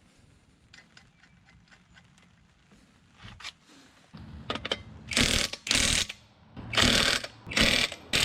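Ratchet wrench being worked, with faint clicking at first and then five loud bursts of ratcheting in the second half.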